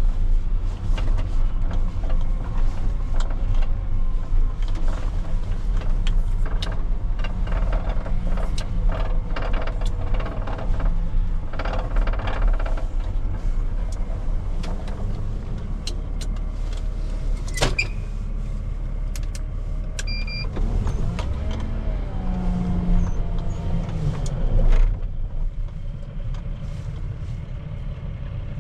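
Diesel engine of heavy earth-moving machinery running steadily under load, with scattered knocks and clatters of gravel handling and a sharp bang about 18 seconds in. The engine noise eases somewhat near the end.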